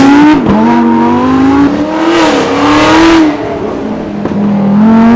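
Car engine accelerating hard, its note climbing steadily and then dropping sharply as it shifts up, twice.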